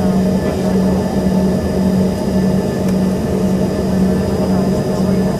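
Inside the cabin of an Embraer ERJ-145XR, its rear-mounted Rolls-Royce AE 3007 turbofan engines running: a steady loud cabin drone with a low hum that throbs evenly, under faint higher whining tones.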